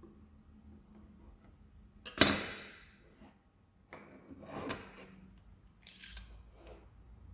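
Woodworking hand work on wood: one sharp knock about two seconds in, then a longer scraping stroke that swells to a peak, and two short hissing strokes near the end.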